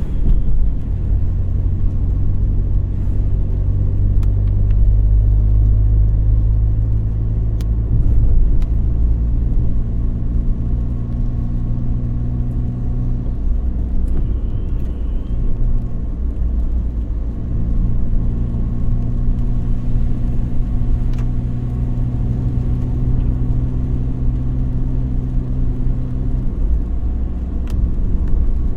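Car driving, its engine and road noise making a steady low rumble; the engine's hum drops away about halfway through, comes back a few seconds later and fades again near the end as the car slows and speeds up.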